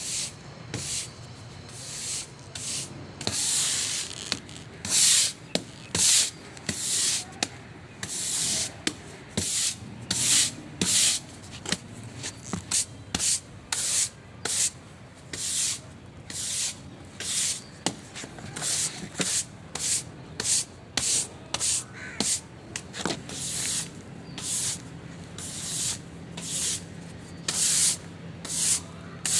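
Rough scrubbing strokes, one after another at about one or two a second and uneven in strength, each a short gritty hiss.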